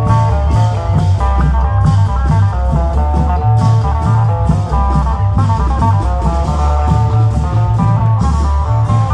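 Loud, amplified Isan klong yao (long-drum) band music: a fast plucked-string melody over a heavy, pulsing bass and steady drum beats.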